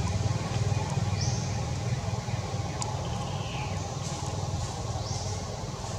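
A few short, high bird chirps: two quick rising calls, one about a second in and one near the end, with a lower falling call between them. Under them runs a steady low rumble.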